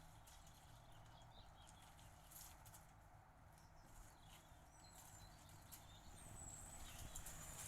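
Near silence: a faint low hum with scattered faint clicks.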